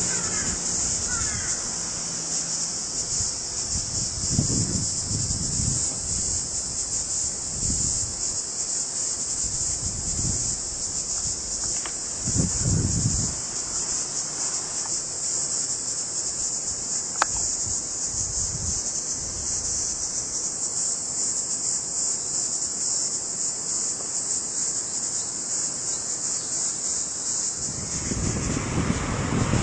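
A steady, high-pitched chorus of summer insects, with gusts of wind buffeting the microphone every few seconds and growing stronger near the end.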